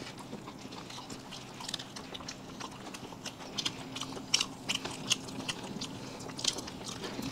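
People chewing and smacking their lips while eating fried chicken, cake and noodles close to the microphone: a run of short mouth clicks and smacks, several a second.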